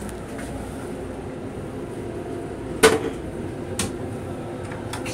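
Steady rumble of an M7 electric railcar running on the rails, heard inside its restroom. About three seconds in comes a sharp knock, the loudest sound, and a lighter one about a second later, as the plastic toilet lid is handled.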